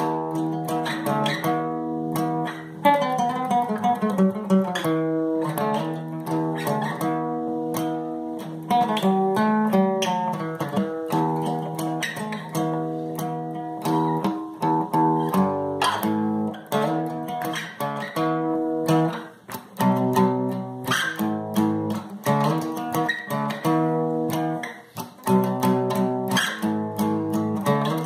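Guitar playing a tune solo: a steady run of picked notes and chords with no other instrument or voice.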